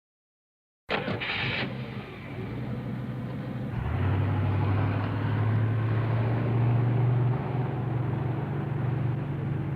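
A vehicle engine running steadily with a low hum. It cuts in suddenly out of silence about a second in and gets louder about four seconds in.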